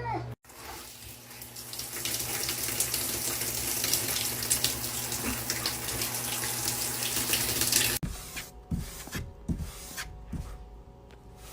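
Water running steadily from a tap, stopping abruptly about eight seconds in. After that come a few soft low thuds and rubbing sounds.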